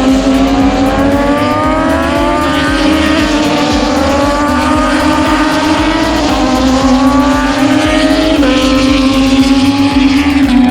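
Racing motorcycle engine accelerating hard through the gears, its pitch climbing and then dropping at each upshift, about four times, over a steady drone.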